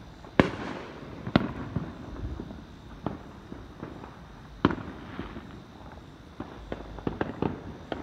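Neighbourhood fireworks and firecrackers going off at different distances: loud bangs about half a second in, a second later and just past the middle, each with an echo trailing off, between smaller scattered pops and a quick run of pops near the end.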